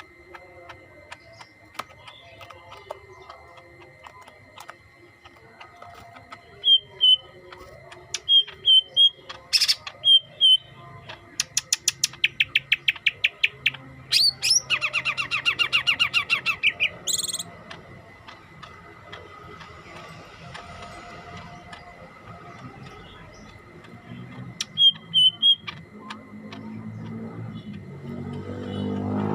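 Cucak hijau (green leafbird) singing: scattered short high chirps, then a long fast trill of rapidly repeated notes lasting several seconds, then a few more chirps. A faint steady high tone runs underneath, and a low rising sound comes in near the end.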